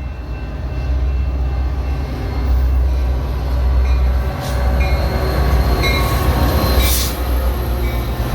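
Metra commuter train with two diesel locomotives passing close by: a heavy, steady low rumble, with brief high wheel squeals and a few sharp clicks from the wheels on the rails.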